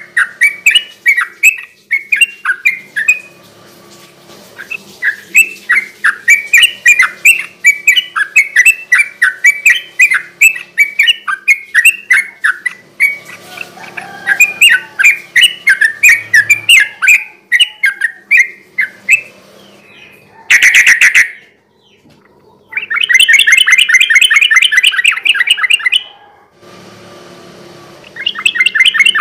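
Yellow-vented bulbul (trucukan) singing, with many short bubbling, chattering phrases in quick succession. About two-thirds of the way in comes a short, very loud harsh note, followed by a fast, continuous rattling trill lasting a few seconds, which starts again near the end.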